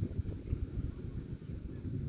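Wind buffeting the microphone as a low, uneven rumble, with a few faint taps, likely footsteps on the walk.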